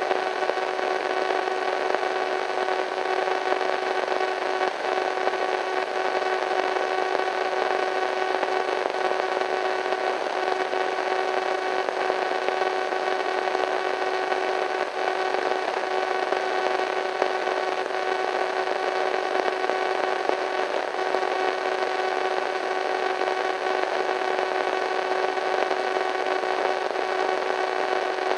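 Radio static: a steady hiss with a constant low hum of several tones running through it.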